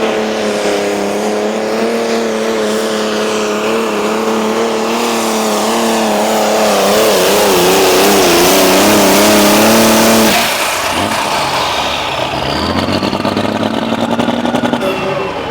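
Light limited super stock pulling tractor's engine run flat out under load, its pitch wavering about seven seconds in. It is cut back abruptly about ten seconds in as the pull ends, leaving a high whine falling away over a lower, rougher running engine.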